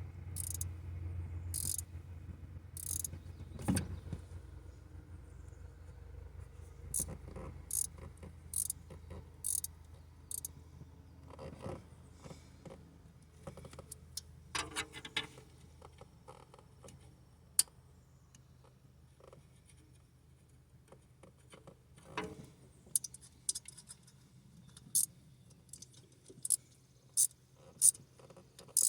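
Hand tools clicking and scraping on metal in short, irregular series of sharp clicks with a few duller knocks, as a stud or tap is worked in and out of a cruddy exhaust stud hole on a big block engine. A low hum fades out over the first few seconds.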